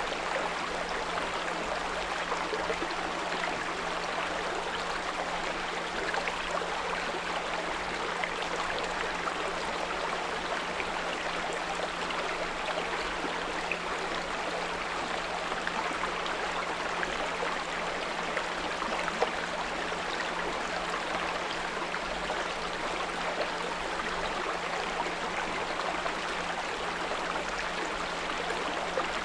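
A small brook running steadily over stones, with a continuous low 174 Hz pure tone underneath.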